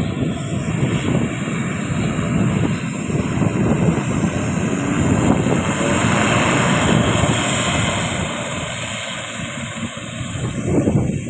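Twin-turboprop ATR 42-500 airliner's engines and propellers running, a loud steady drone that swells to a peak past the middle and then eases off, as the aircraft passes.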